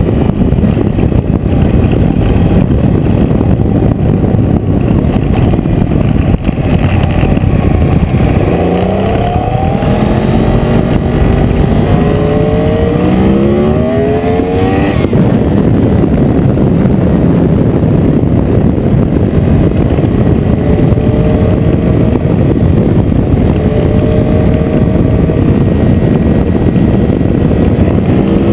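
Yamaha R1 sportbike's inline-four engine running under way, climbing in pitch through several gear changes about a third of the way in, then pulling at a steadier speed.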